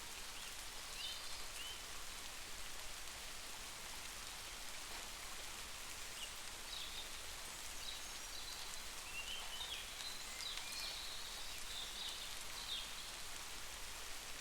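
Steady rain falling, an even hiss of drops, with scattered short high chirps through the middle and later part.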